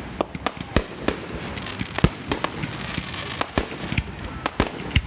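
Fireworks going off: a quick, irregular run of sharp bangs, about a dozen in five seconds, the loudest about two seconds in.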